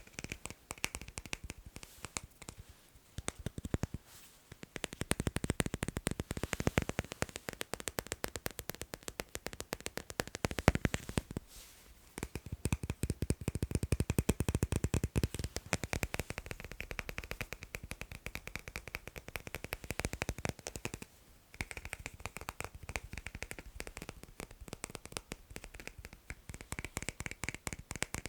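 Fast tapping on magnets: a rapid, dense run of small clicks, broken by brief pauses a few times.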